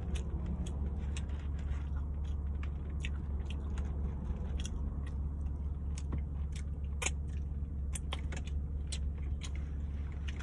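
Close-up chewing and lip-smacking of sauced barbecue ribs: many small, irregular wet mouth clicks over a steady low hum.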